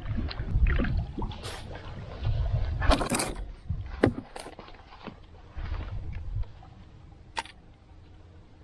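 Canoe paddle strokes: the paddle dipping and splashing in the lake in a few separate strokes, the loudest about three seconds in. A low rumble underneath drops away about six seconds in.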